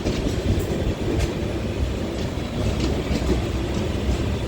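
Passenger train running along the track: a steady rumble of the wheels and coach, with faint clicks now and then.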